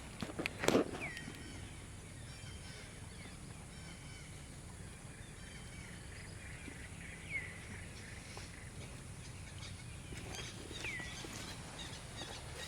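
A few short, high animal calls, each dropping in pitch and then holding briefly, spaced several seconds apart, with a sharp knock or rustle about a second in.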